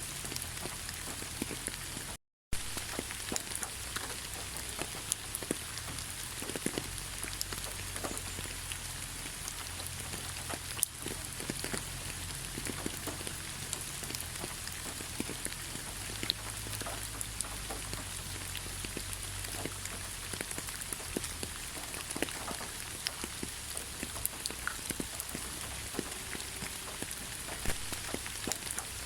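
Steady rain, with many separate drops ticking through an even hiss. The sound cuts out completely for a moment about two seconds in, then resumes.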